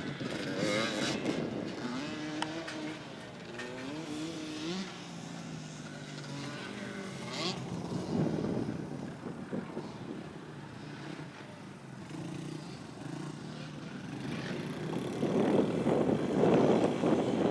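Dirt bike engine riding around a track, its pitch rising and falling in steps as the throttle opens and closes, louder near the end as it comes closer.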